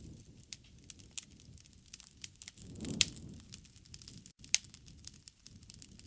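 Wood fire crackling, with irregular sharp pops over a low rumble of flames; the loudest pops come about three seconds in and again about a second and a half later.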